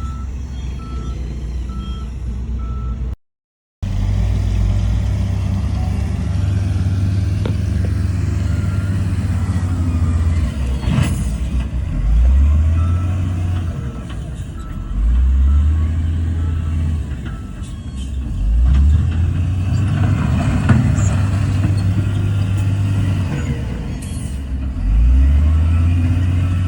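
Heavy diesel engines of a bulldozer and dump trucks working, the engine note rising in pitch several times as it revs under load. A reversing alarm beeps on and off in the first part, and the sound cuts out completely for a moment about three seconds in.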